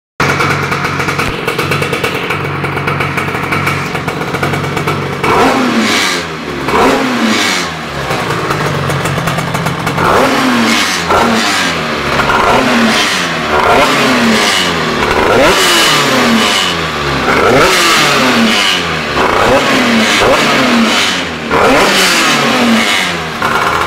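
Two-stroke motorcycle engine bored to 70cc with a Barikit cylinder kit and breathing through a GP2 expansion-chamber exhaust, running steadily for a few seconds. Then the throttle is blipped again and again, the revs rising sharply and falling back, at first a few seconds apart and then about once a second.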